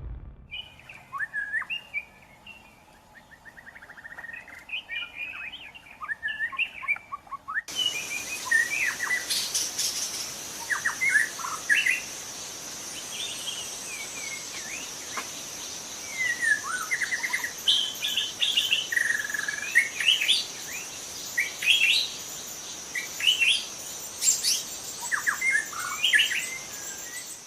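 Birds chirping and calling in short, quick notes, repeatedly. About eight seconds in, the background changes abruptly and a steady high-pitched hum runs behind the calls.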